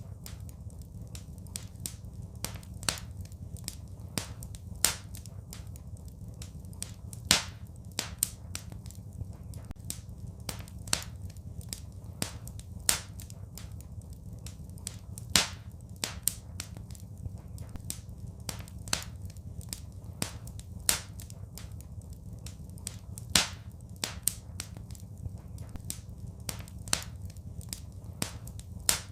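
Wood fire crackling in a fireplace: frequent sharp pops and snaps at irregular intervals, with a few louder pops, over a steady low rumble of the burning fire.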